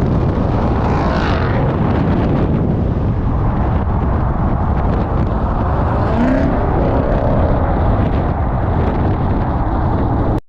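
Ford Mustang Bullitt's 5.0 V8 running through an H-pipe exhaust, a loud steady rumble with no clear revs.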